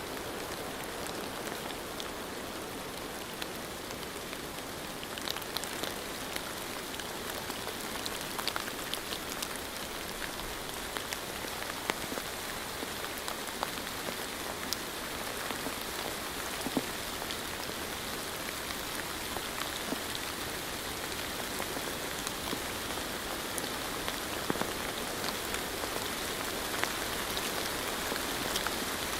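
Steady rain falling, a constant hiss with many individual drops ticking and pattering out of it.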